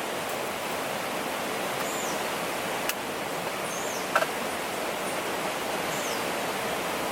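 Steady rushing noise, with a couple of sharp cracks and faint high chirps about every two seconds.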